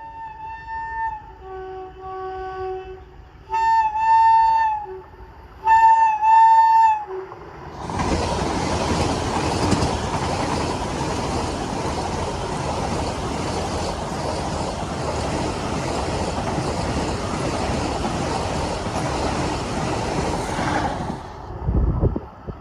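Train horn sounding in several blasts, two of them loud and about a second long, then the train rushing past in a loud steady roar of wheels and wind that cuts off near the end.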